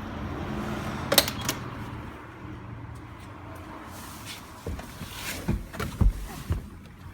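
1970 Porsche 911T's air-cooled flat-six engine idling steadily, with two sharp clicks about a second in and several dull knocks in the second half.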